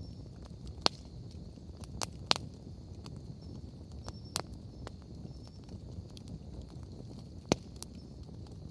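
Wood campfire crackling, with irregular sharp pops (a few louder ones, about six in all) and fainter ticks over a low steady noise of the burning fire.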